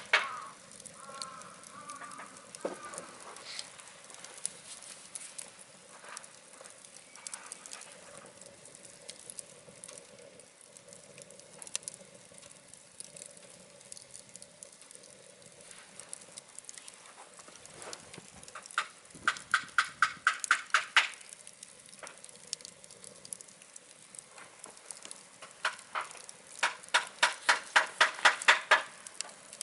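Wood fire of scrap building timber crackling, with scattered sharp pops over a faint hiss. Twice, about two-thirds in and again near the end, it breaks into a run of rapid, evenly spaced ticks, about six a second.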